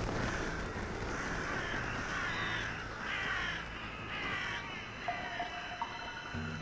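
Hooded crows cawing: a run of harsh, repeated calls.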